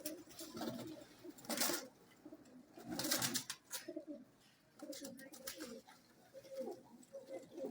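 Domestic pigeons cooing, low repeated coos throughout. Two loud short bursts of noise come about one and a half and three seconds in.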